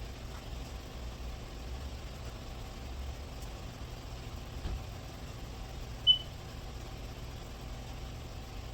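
Steady low background hum with one short, high-pitched beep about six seconds in.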